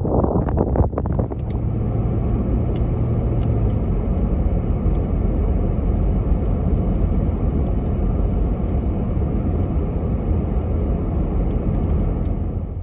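Steady low rumble of a car on the road, with rough wind buffeting on the microphone in the first second or so.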